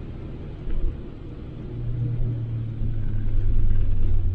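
Daihatsu Applause's engine and road noise heard from inside the cabin at track speed. A short low thump comes just under a second in. From about two seconds in, a steady low engine drone takes over and grows louder.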